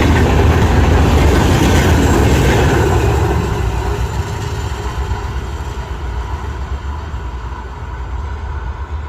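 Train passing at speed, loud for about the first three seconds, then dropping to a lower steady rumble.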